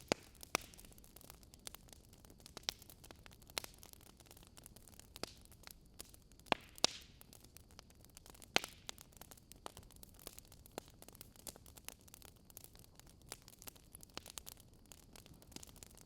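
Wood fire burning with steady, irregular crackling and sharp pops as the burning wood snaps, over a faint low hiss; the loudest pops come right at the start, around the middle, and a little later.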